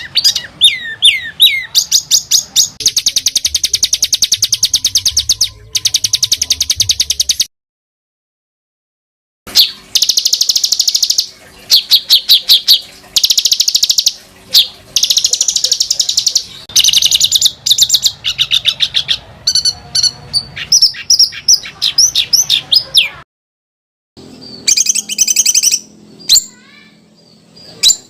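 Songbirds singing masteran material: tight, fast rolling trills and harsh rapid-fire chattering fills, the kind used to teach competition birds. The song cuts off abruptly to dead silence twice, at edit splices, once about a third of the way in and again near the end.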